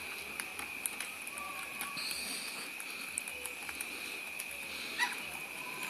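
Small backyard birds giving short, scattered chirps and calls, the loudest about five seconds in, over a steady high-pitched hum.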